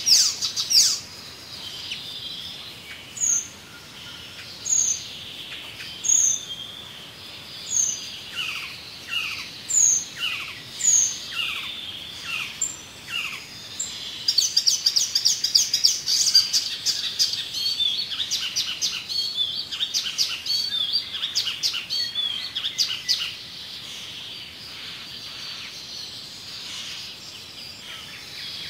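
Songbirds singing: a string of short, downward-sliding chirps about once a second, then a denser stretch of overlapping chirps and calls from about halfway, thinning toward the end.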